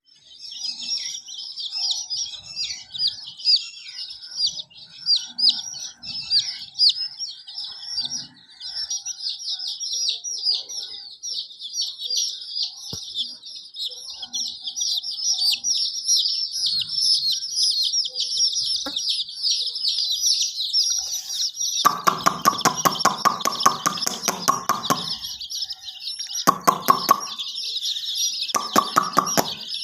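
A brood of chicks peeping constantly in short, high chirps. About two-thirds of the way in, a hen joins with low, rapid clucking in three or four bouts, which are louder than the peeping.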